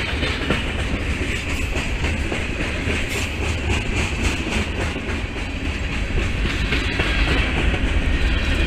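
Freight train cars rolling past at close range: a steady, loud rumble of wheels on rail, with the cars clicking over the rail joints.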